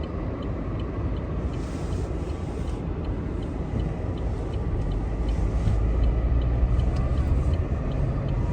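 Car driving on a snowy road: a steady low rumble of road and engine noise that grows a little louder after about halfway, with faint high ticks repeating at even spacing.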